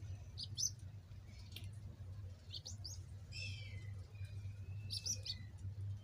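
Small birds chirping: short high chirps in scattered groups of two or three, with a brief warbling run about three seconds in, over a low steady hum.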